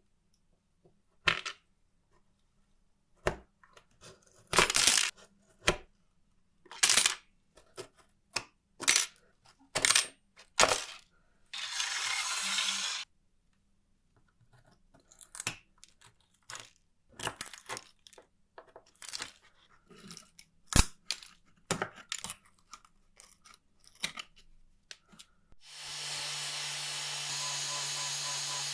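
Small metal parts and hand tools clicking and clinking against each other and the bench, with a brief hiss about halfway through. Near the end a small power tool's motor starts and runs steadily.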